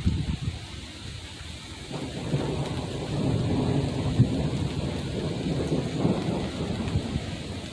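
Thunder rumbling during a summer microburst rainstorm. It swells about two seconds in and rolls on, with rain falling beneath it.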